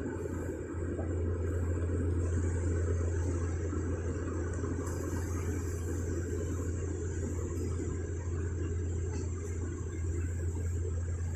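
A vehicle engine running steadily, a low even rumble with no revving.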